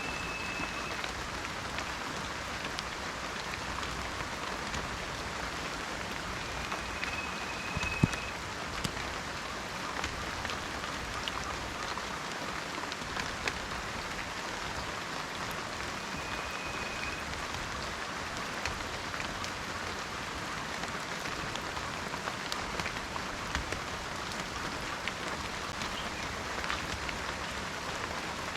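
Steady rain falling in a forest, an even hiss full of small drop ticks, with one sharper, louder drip about eight seconds in. A short, faint high whistle sounds three times.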